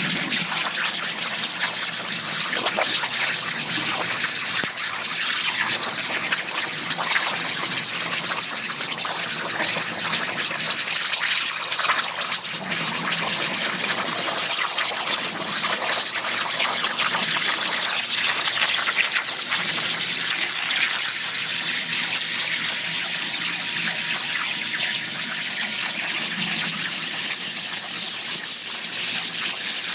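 Hypertherm plasma cutter on a CNC plasma table cutting sheet metal underwater. It gives a steady, loud hiss of the arc and its air, with water gushing and bubbling around the torch.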